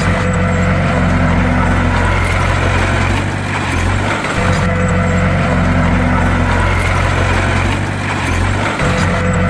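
Bulldozer's heavy diesel engine running hard and steadily, dipping briefly and picking up again about every four and a half seconds.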